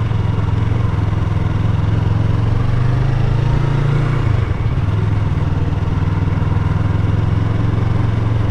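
Yamaha R3's parallel-twin engine running steadily while riding, with a change in the engine note a little past four seconds in.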